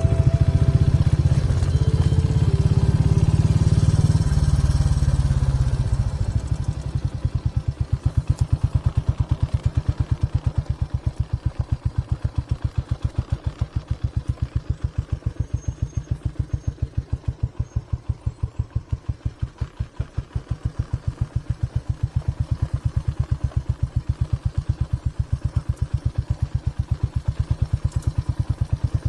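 Motorcycle engine running, louder and steadier for about the first six seconds, then settling to an idle with an even, loping beat of several pulses a second.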